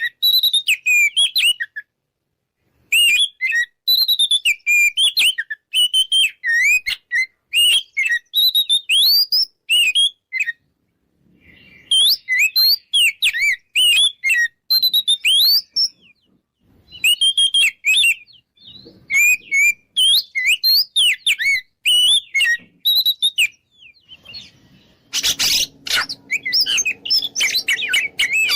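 Oriental magpie-robin (kacer) singing a loud, fast run of varied whistled phrases with short pauses. Near the end the song gives way to a denser, harsher stretch over a low hum.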